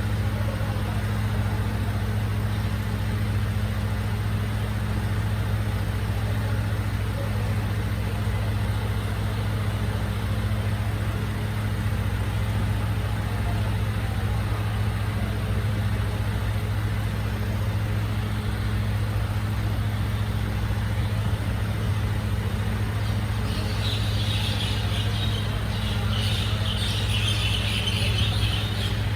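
Recycling truck's engine idling with a steady low hum. From about 24 seconds in, a high hiss joins it for the last few seconds.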